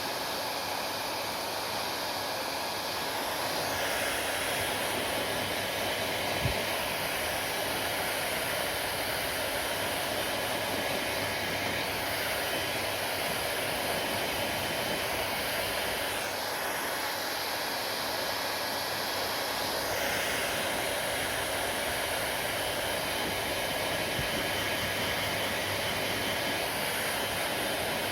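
Hand-held hair dryer running steadily, its airflow noise changing in character several times. A brief knock about six seconds in.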